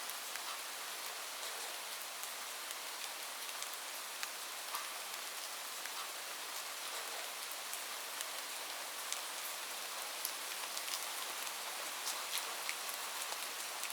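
Light rain falling steadily: an even hiss with scattered sharp taps of individual drops.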